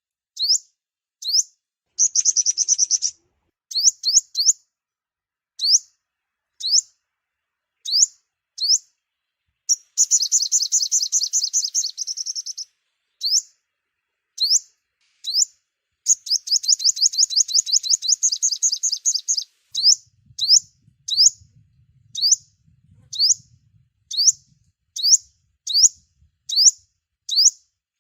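Sunbird calling: sharp, high, upward-sweeping chirps repeated singly and in pairs, broken three times by rapid trills. The trills last from about one second to about three and a half seconds, the longest coming past the middle.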